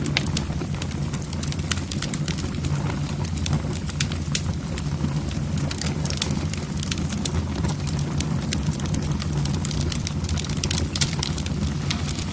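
Wood logs burning in a fireplace, crackling with frequent sharp, irregular pops over a steady low rumble of the flames.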